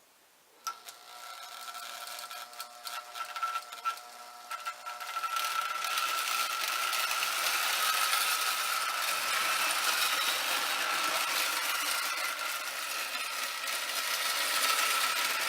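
Electric motor of a Marx No. 999 toy train locomotive starting up and running with a steady high whine, with clicking and rattling over the first few seconds. Its drive wheels spin on the rails, having no traction tire to grip.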